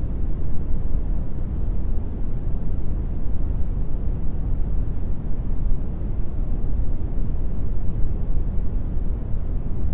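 Brown noise: a steady, deep rushing hiss, heaviest in the bass and thinning toward the treble, with no change or events.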